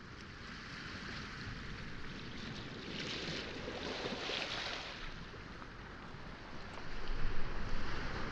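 Waves washing onto a pebble shore, the wash swelling about three seconds in and easing off again. Near the end, louder low bumps come in over the surf.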